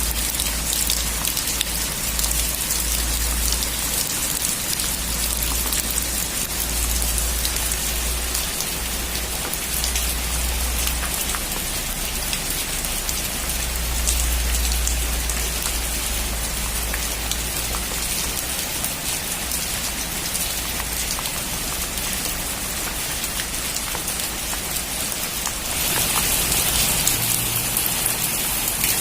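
Heavy rain drumming on a metal roof, a dense patter of drops with a low rumble underneath that swells and fades. The rain grows louder and brighter near the end.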